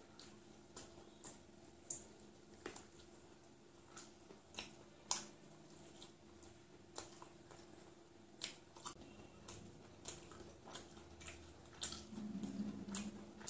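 Close mouth sounds of eating crispy fried chicken: chewing and lip smacks heard as irregular sharp clicks, about one or two a second, with a brief low hum near the end.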